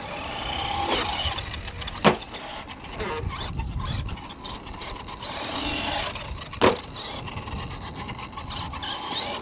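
Electric motor of a 1/10-scale FMS Ford F-100 RC monster truck whining up and down in pitch as the truck drives, with tyre and chassis noise. Two sharp knocks, about 2 seconds and 6.5 seconds in, are the loudest sounds.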